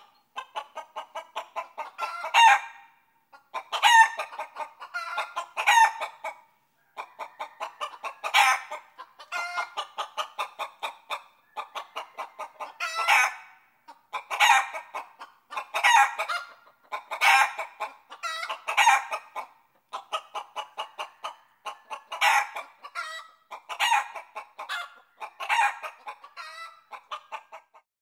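Repeated clucking calls: quick runs of short clucks, each building to a louder squawk, coming back about every one and a half seconds.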